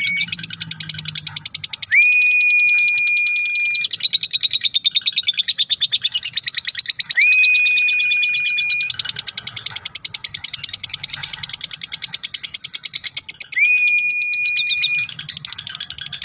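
Lovebird ngekek: a long, unbroken chattering trill of very rapid high-pitched notes, shifting tone every few seconds. A steady high whistled note, about a second and a half long, sounds over it four times.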